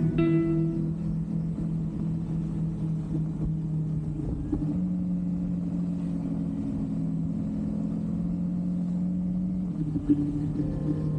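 Kawasaki Versys 300X's parallel-twin engine running steadily on the move. Its pitch steps up slightly about halfway through and drops back shortly before the end.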